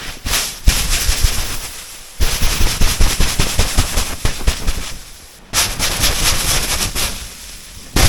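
Tent fabric and camping gear rustling and crinkling as a tent is packed away: a dense, loud crackle full of sharp clicks, in three spells with short breaks between them.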